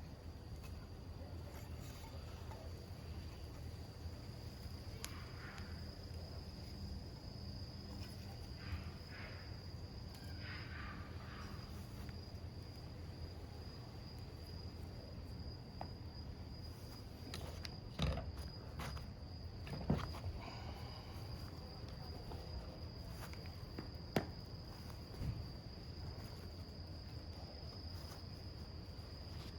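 Wood campfire burning with a low steady rush and a few sharp pops of the wood, under a steady high chirr of crickets.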